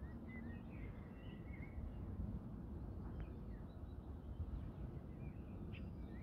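Small birds chirping and whistling in short, scattered calls over a low, steady rumble.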